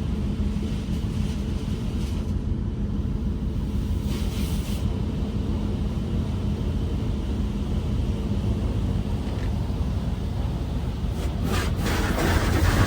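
Steady low hum of a D&S 5000 in-bay automatic car wash running its gloss stage, heard from inside a vehicle cab; near the end a louder hiss of spray on the body starts to build.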